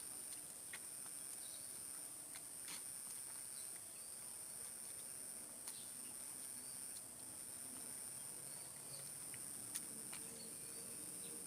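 A steady, high-pitched chorus of crickets or similar insects, with a few faint clicks.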